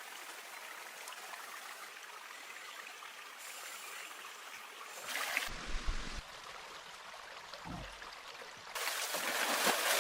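Running stream water, a steady rush that shifts abruptly a few times and grows louder near the end, with a couple of dull low thumps around the middle.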